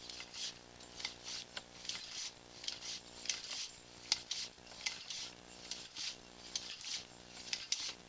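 Sewer inspection camera and its push cable being worked back and forth against an offset joint in the drain pipe: a scraping, rattling sound that comes in short bursts about two or three times a second. A steady electrical hum runs underneath. The offset is stopping the camera from passing.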